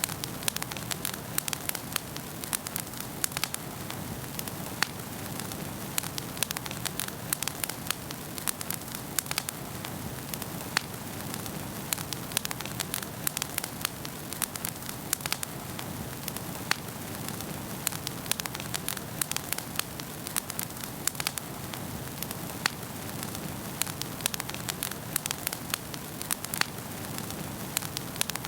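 Wood fire burning in a fireplace: a steady low rush of flames with many sharp, irregular crackles and pops.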